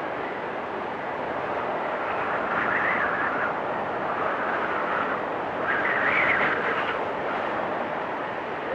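Strong storm wind blowing steadily with a whistling rush, swelling in two gusts, about three seconds in and again about six seconds in.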